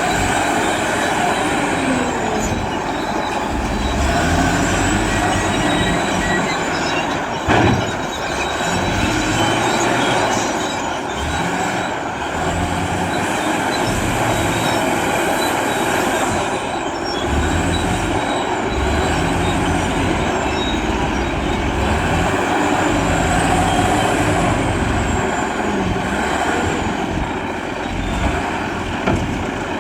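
Wheel loader's diesel engine working under load, revving up and down again and again, with a high whine that rises and falls with it. A single sharp knock about seven and a half seconds in.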